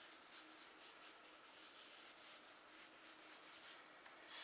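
Faint scratchy strokes of a charcoal stick dragged lightly over textured drawing paper, a run of short strokes with a slightly louder one near the end.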